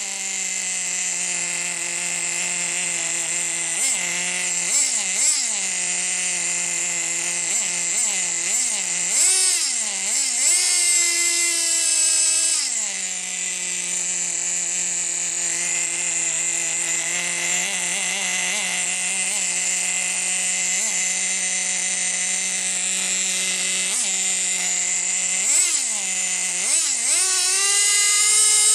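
Team Associated GT2 nitro RC truck's small glow-fuel engine idling with a high, buzzy whine, blipped up and down several times, and revved up again near the end.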